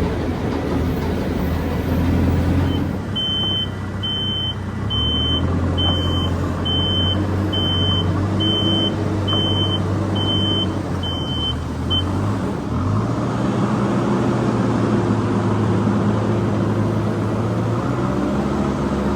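Farm loader's engine running and changing revs while it moves straw bales, with a reversing alarm beeping about once a second for roughly nine seconds before it stops.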